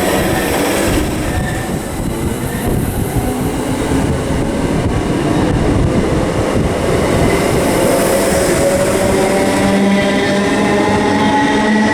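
Electric train running on the main line close by, a rumble of wheels on track under a motor whine that slowly rises in pitch, most clearly near the end.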